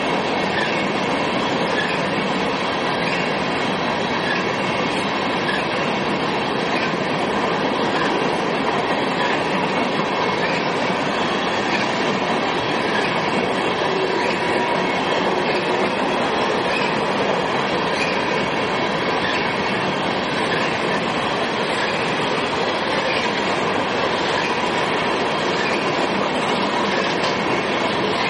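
Freight train hopper cars rolling past: a steady rumble and clatter of steel wheels on the rails.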